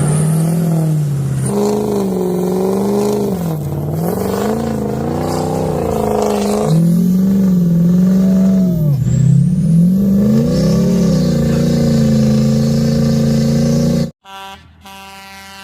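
Diesel pickup truck engine revving hard, its pitch rising and falling again and again as it is driven through deep snow. About 14 seconds in, it cuts off suddenly to a quieter, steady drone.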